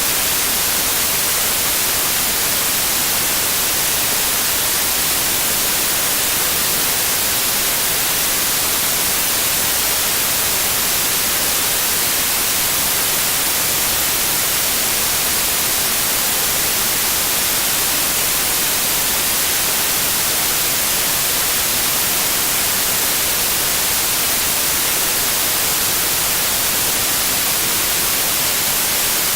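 Steady synthetic white noise: an even, continuous hiss that does not change.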